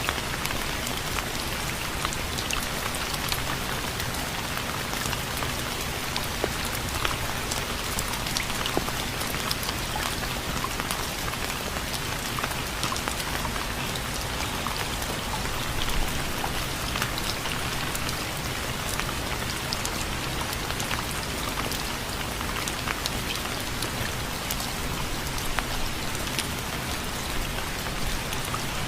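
Steady rain with many individual drops ticking on a hard surface, an even hiss with no let-up.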